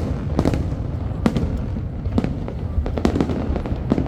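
Aerial fireworks bursting: a rapid string of sharp bangs, about two a second, over a continuous low rumble.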